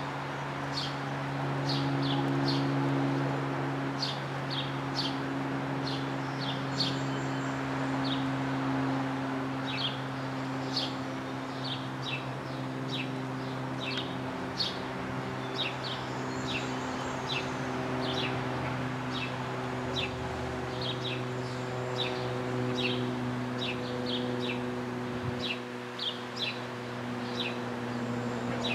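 A small bird chirping over and over, short high chirps about one or two a second, over a steady low hum.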